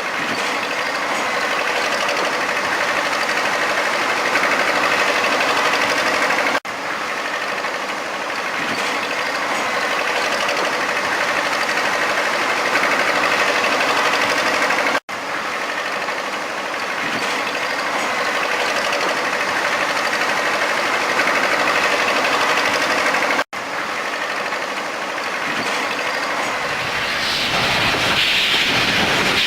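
Steady mechanical running noise, like a vehicle or machine running, with a faint steady tone. It cuts out for an instant three times, and near the end it shifts to a deeper rumble with a brighter hiss.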